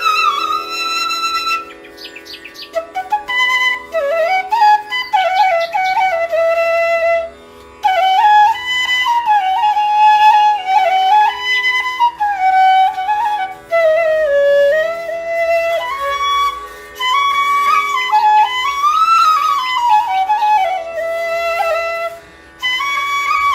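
Music: a solo flute playing a flowing, gliding melody over a steady held drone, with brief pauses between phrases.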